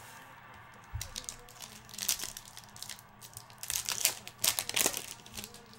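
Foil wrapper of a baseball card pack crinkling and tearing as it is opened, in a run of crackly bursts, with a soft thud about a second in.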